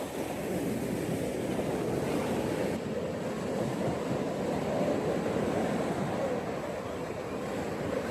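Ocean waves washing onto a beach, a steady surf noise that swells and eases gently.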